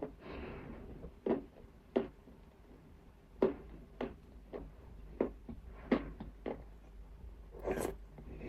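Nzu, the chalky edible clay, being bitten and crunched in the mouth close up: a string of short, sharp crunches about every half second to a second, with softer breathy chewing sounds near the start and near the end.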